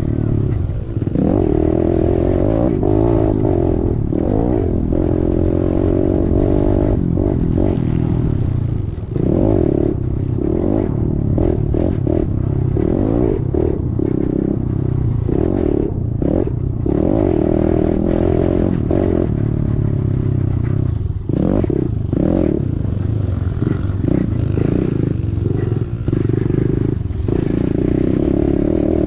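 Kawasaki KLX110's small single-cylinder four-stroke engine revving up and down as the rider goes on and off the throttle around the track, with brief drops in engine note and clattering from the bike over the bumps.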